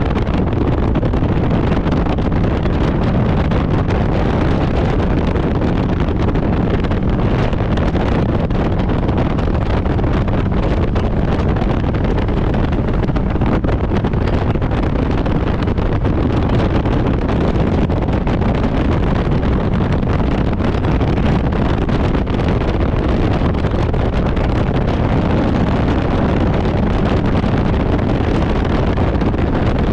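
Harley-Davidson Road Glide's V-twin engine running steadily while riding, with wind buffeting the microphone.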